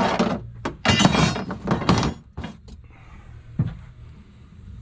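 Clattering knocks and rattles of an item being slid and set back into a storage compartment in a pickup truck bed, dying down after about two and a half seconds, then one sharp knock about a second later.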